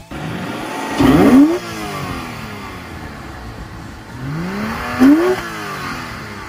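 2007 Porsche 911 Carrera's flat-six engine revved twice from idle, each rev climbing quickly and falling back to idle; the second comes about four seconds after the first.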